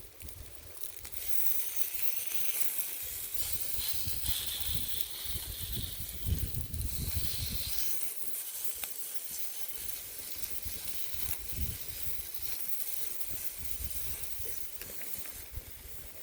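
Steady hissing and sizzling from food cooking over a small wood fire, with a brighter, higher hiss for a few seconds in the middle. Wind rumbles on the microphone throughout.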